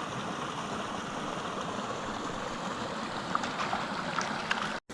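Small mountain creek running steadily, with a few faint light ticks in the second half. The sound drops out abruptly for a moment just before the end.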